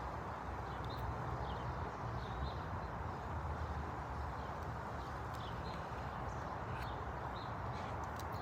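Small birds giving short, faint chirps every second or so over a steady low rumble of background noise.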